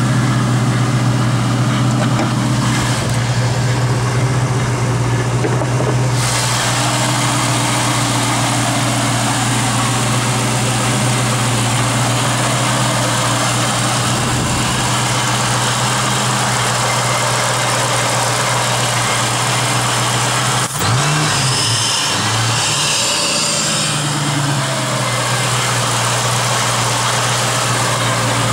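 2003 Ford Mustang SVT Cobra's supercharged 4.6-litre V8 idling steadily. About two-thirds of the way through there is a click, then the engine pitch wavers up and down briefly before settling back to idle.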